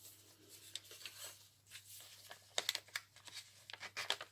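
Paper and card rustling and crinkling softly as junk journal pages and a journaling card are handled, with a cluster of sharper crinkles about two and a half seconds in and again near the end.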